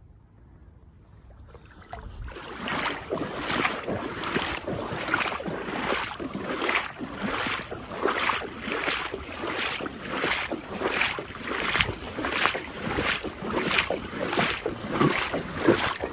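Footsteps wading through knee-deep floodwater: a steady rhythm of swishing, splashing strides, about three every two seconds, starting about two seconds in.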